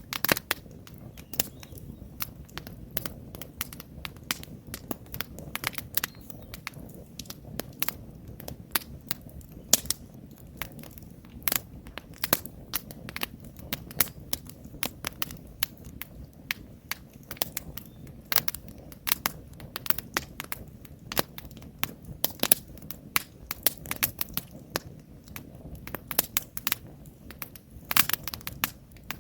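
Wood campfire crackling and popping, with frequent sharp irregular snaps over a steady low rumble of the flames.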